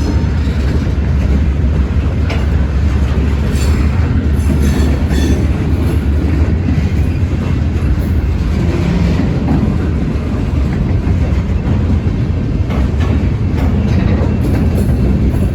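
A train rolling past close by: a steady heavy rumble with wheels clacking over rail joints and brief high squeals of steel wheels on the rail.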